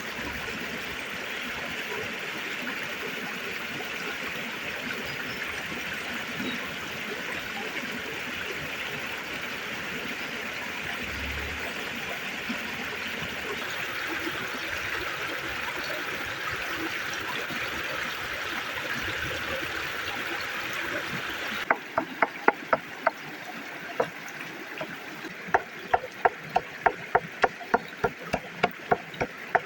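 Steady rush of a flowing river stream. Near the end, a quick, irregular run of sharp knocks or clicks sounds over quieter water.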